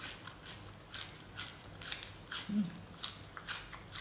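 Close-up crunchy chewing of raw green vegetable stalks: crisp crunches at about two a second.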